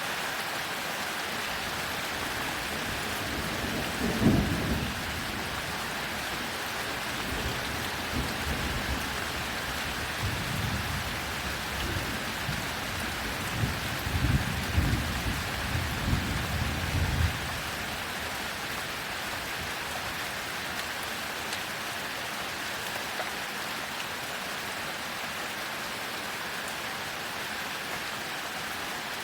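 Heavy rain falling as a steady hiss, with thunder: a sharp clap about four seconds in, then a longer rolling rumble from about ten seconds that stops at about seventeen seconds.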